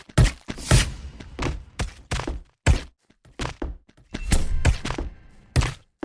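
A run of irregular knocks and thuds, about two or three a second, some with a short ringing tail.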